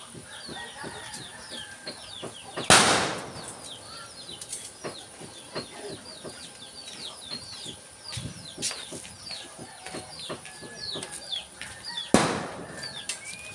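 Small birds chirping rapidly and continuously in short falling notes, over scattered light clicks and taps. Two loud, sudden noises, one a few seconds in and one near the end, each fade over about half a second.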